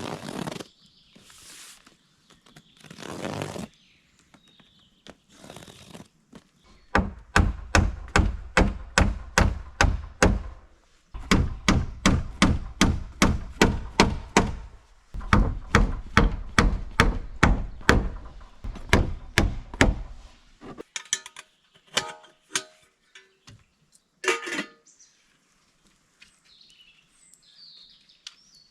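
Rapid, regular knocking thuds, about three a second, in three runs of several seconds each, with a few scattered knocks before and after.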